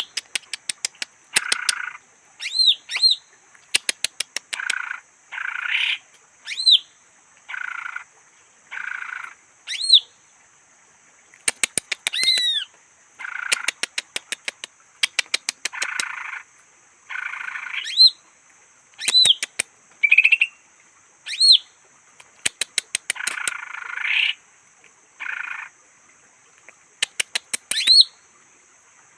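Greater green leafbird (cucak hijau) calling: quick runs of dry clicks, short arched whistles and harsh buzzy notes about a second long, repeated throughout, over a faint steady high hiss.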